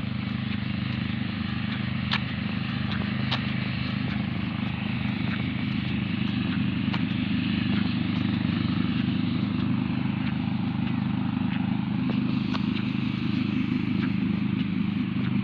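Grass-cutting tractor's engine running steadily, slowly growing a little louder, with a few short sharp clicks over it.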